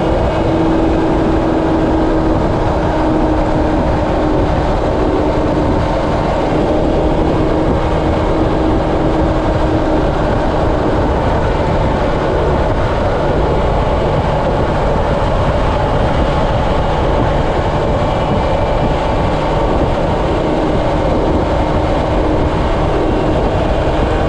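Steady travel noise: a continuous rushing drone with a low hum underneath, unchanging in level throughout.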